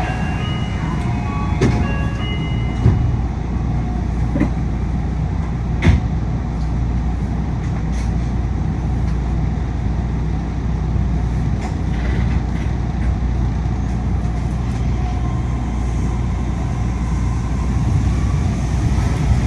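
Cabin noise of a Yui Rail monorail car under way: a steady low rumble with loud air-conditioning noise over it, and a few short sharp knocks in the first six seconds.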